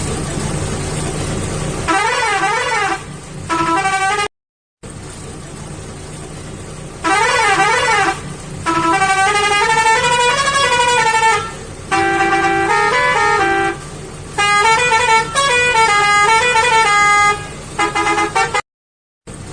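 Multi-tone musical truck horn playing warbling runs of rising and falling notes in several long blasts, over a steady engine hum; the sound cuts out briefly twice.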